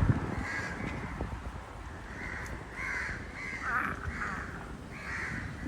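Many house crows cawing, short harsh calls following one another and overlapping.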